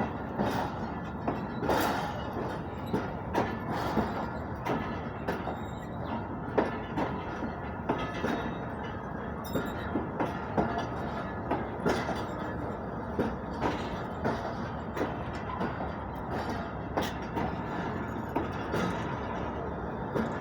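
Old passenger coaches rolling along the track as the rake is shunted into the platform. The wheels clatter and clank at uneven intervals over a steady rumble.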